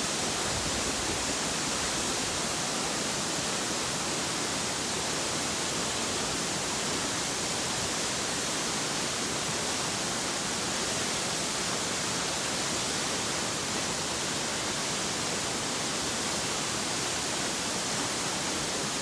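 Nachi Falls pouring: a steady, even rush of falling water with a hissing top.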